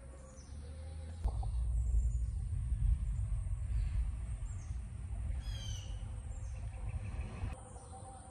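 Birds calling in short, repeated, downward-sweeping chirps, with a brief run of quicker chirps past the middle. Under them, a low rumble starts suddenly about a second in and cuts off near the end.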